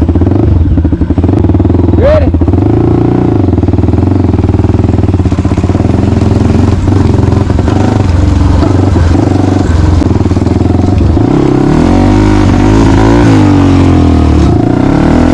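Small off-road vehicle engine running hard while riding, its pitch rising and falling as the throttle changes, with a run of quick revs near the end.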